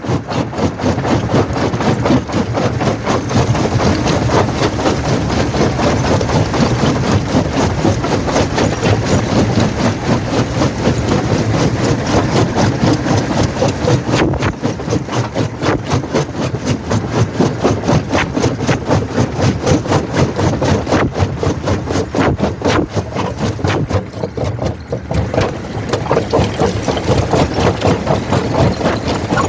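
Quarry primary jaw crusher running: a steady, loud mechanical drone with a fast, even rattling pulse.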